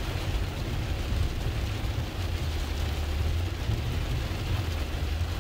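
Truck driving through floodwater: a steady low engine and road drone under a constant rushing hiss of water and rain.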